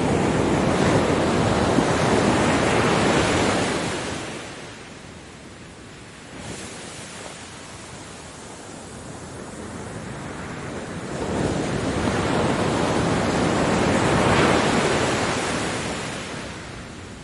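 Ocean waves breaking on a beach: a surge of surf that washes out and fades after about four seconds, then a slow build to the next breaking wave about fourteen seconds in, which then fades.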